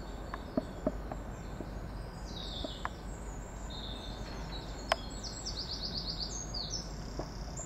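Small songbird singing over a steady low outdoor rumble: high chirps from a couple of seconds in, then a quick run of falling notes near the end. A few faint clicks.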